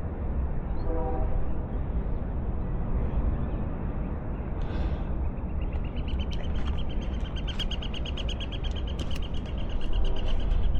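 Wind rumbling on the microphone throughout. In the second half, a rapid high trill of many short repeated notes runs on to the end.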